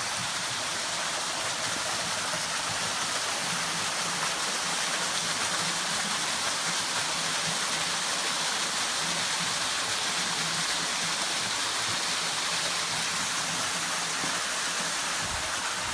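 Large waterfall in a rocky Ozark creek, a steady rush of falling water pouring into a pool, flowing heavily after a recent rain.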